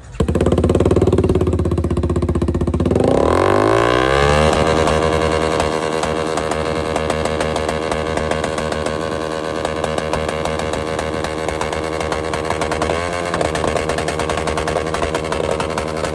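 Car engine revved hard through its exhaust in a rev contest. The pitch climbs about three to four seconds in, and the engine is then held at high revs for most of the rest, wavering briefly near the end.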